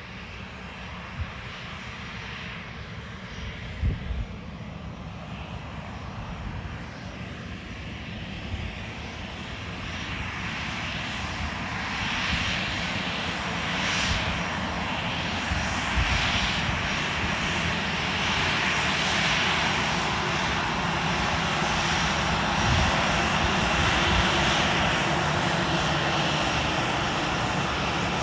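Jet airliner engines roaring steadily and growing louder through the second half. Two brief thumps come in the first few seconds.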